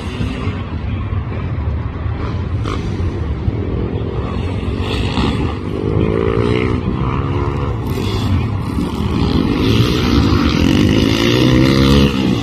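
Pit bike engine revving up and down as it is ridden, its pitch rising and falling several times.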